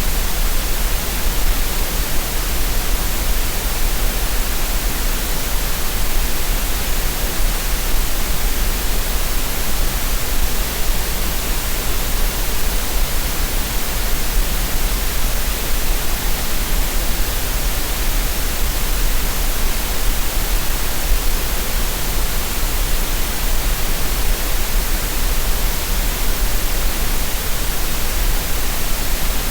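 Green noise: a steady, unchanging synthetic noise hiss with no rhythm or events, and a strong deep rumble underneath.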